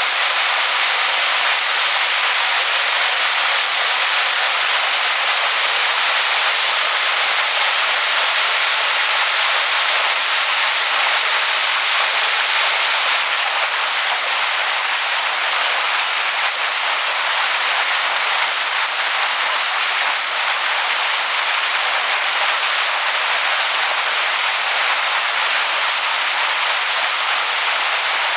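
Waterfall splashing onto rocks: a steady, dense hiss of falling water, mostly high in pitch with no deep rumble. It eases slightly about halfway through.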